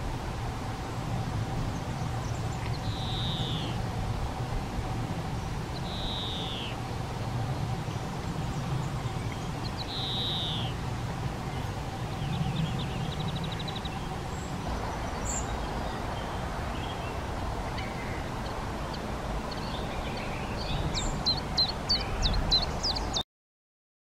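A small bird gives a thin, high, falling whistled call about every three to four seconds, then a quick run of ticks, and near the end a cluster of sharp clicks. A faint steady hum and low rumble lie underneath, the hum stopping about halfway.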